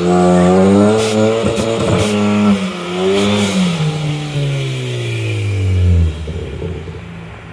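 Big-turbo Ford Focus ST engine held at high revs during a burnout, its front tyres spinning in clouds of smoke. The revs sag slowly after a few seconds, then fall off sharply near the end as the engine eases off.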